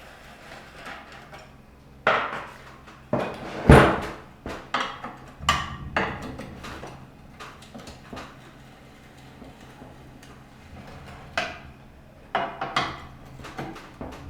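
Scattered metal clanks and knocks of a spanner and loose parts as the recoil starter is unbolted and taken off a small Tiger TG950 generator, the loudest knock just before four seconds in and another cluster near the end.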